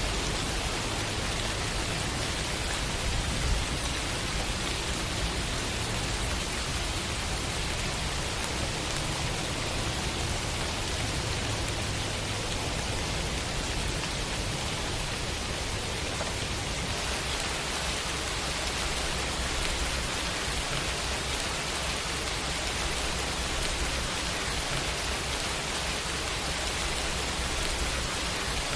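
Steady rain falling on hard surfaces, an even hiss with a low rumble beneath it.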